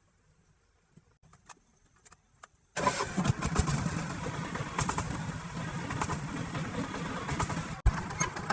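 A few light clicks, then about three seconds in a truck engine suddenly starts up and runs loudly and roughly, with a rapid pulsing beat.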